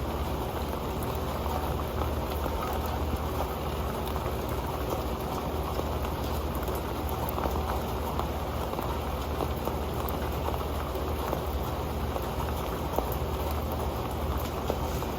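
Steady rain falling on an old pan: a continuous dense noise of drops, with many small individual taps throughout.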